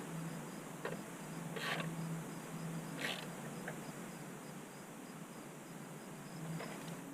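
Battery hold-down bracket being fitted and fastened over a car battery: a few separate metal scrapes and clicks, the loudest about two and three seconds in, over a steady high-pitched chirping.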